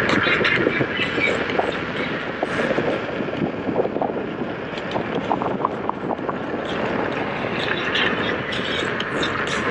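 Wind and road noise rushing past a moving motorcycle rider, a dense steady rush with scattered small ticks and knocks.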